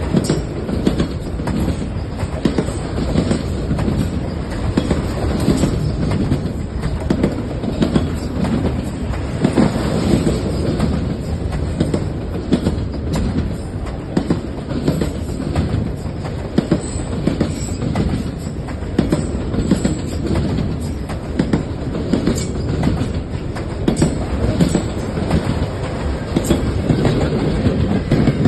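Long freight train rolling past: a steady rumble of the cars with repeated clacking of wheels over rail joints, and a faint high wheel squeal now and then.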